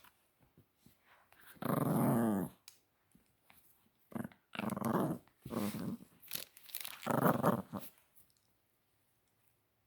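Chihuahua puppy growling in a series of short bursts while playing with a toy, the longest growl about two seconds in, then quiet for the last two seconds.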